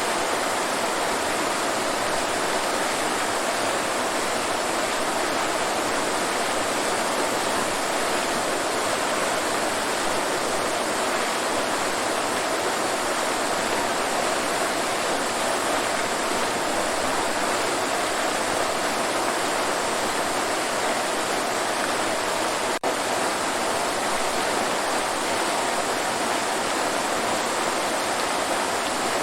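Waterfall: steady rushing, splashing water, with a split-second drop in level about three quarters of the way through.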